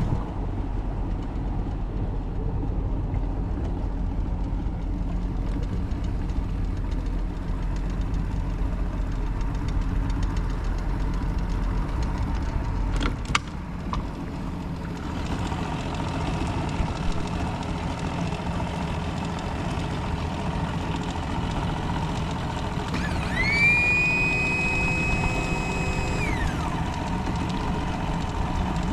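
Outboard motor of an aluminum bass boat running steadily, heard from aboard. About halfway through there is a sharp knock and the engine's deep drone changes. Near the end a high whistling tone rises, holds for about three seconds and then falls away.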